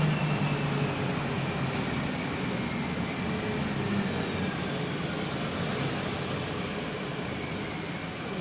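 Bus on the move, heard from inside: steady running and road noise, with a faint whine that falls slowly in pitch over the first several seconds.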